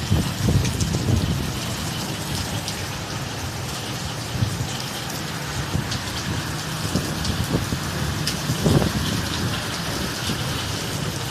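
Heavy rain falling, a steady hiss of drops with many sharp individual drop impacts and occasional low thuds.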